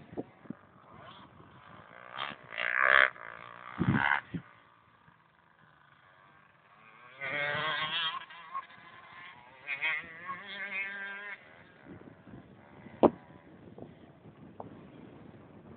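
Yamaha YZ125 two-stroke motocross bikes revving in a few short bursts, then in a longer wavering run, with a sharp click near the end.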